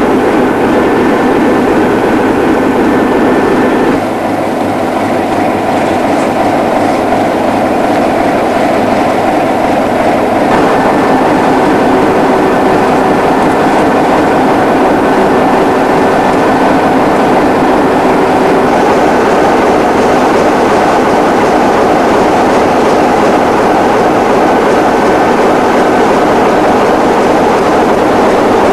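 A train running on the rails: a loud, steady rumble and rattle that changes abruptly about 4 seconds and 10 seconds in.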